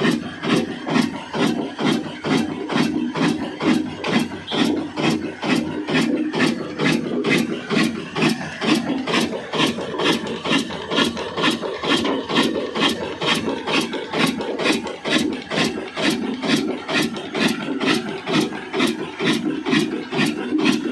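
Old Ruston diesel engine running steadily, an even beat of several knocks a second.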